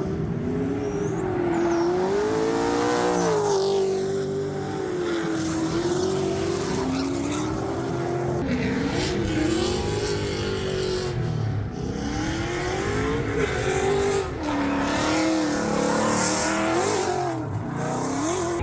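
Drift car engine revving up and down under load while the car slides, with tyre squeal.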